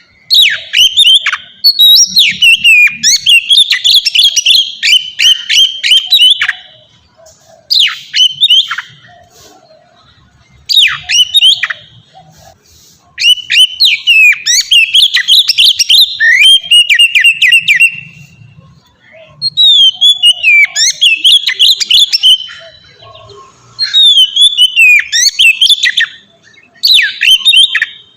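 Oriental magpie-robin (kacer) singing loud, varied whistled phrases full of quick gliding notes. The phrases come in about eight bursts of one to five seconds, with short pauses between them.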